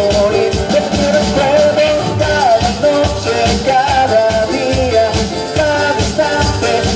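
Latin band music with a steady beat and a melody line carried on top.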